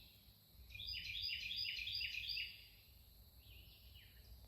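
A songbird in a tree singing a quick series of repeated, slightly falling chirps, about four a second, loudest from just under a second in until about halfway through, with a few fainter notes near the end.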